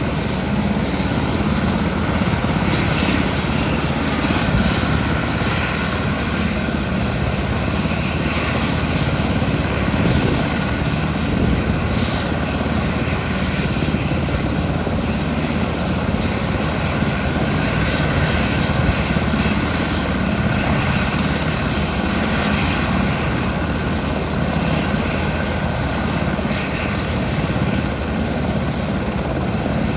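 SH-60K helicopter running steadily, its twin turboshaft engines and rotor making a continuous loud noise with no change in level.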